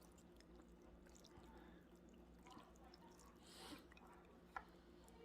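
Faint close-up eating sounds from a bowl of beef rib pho: small wet mouth clicks, a short slurp about three and a half seconds in, and one sharp click about a second later, over a low steady hum.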